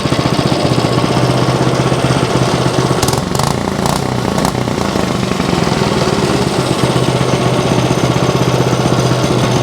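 Small go-kart engine running steadily at idle, smooth now that its carburetor has been cleaned and it has fresh gas. A few sharp clicks come about three to four and a half seconds in, while the engine note wavers briefly.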